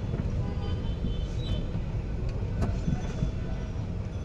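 Toyota Noah minivan driving: a steady low rumble of engine and road noise, with a few faint clicks.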